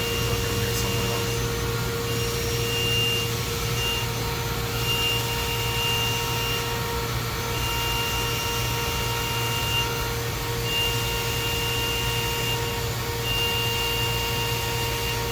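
DMG Mori DMC 1035V vertical machining center running a cutting cycle behind its closed door: a steady machine whir with low and middle hums and a high whine that cuts in and out every second or two.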